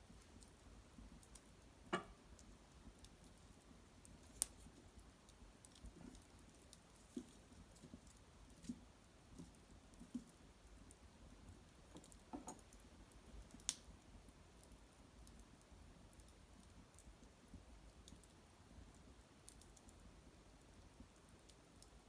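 Faint, sparse crackles and pops of a wood fire burning in a hearth, with a few sharper pops at about 2, 4 and 14 seconds in.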